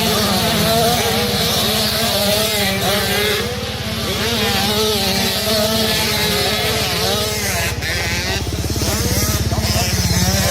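A pack of two-stroke 125cc motocross bikes racing, several engines at once, their pitches rising and falling as the riders work the throttle.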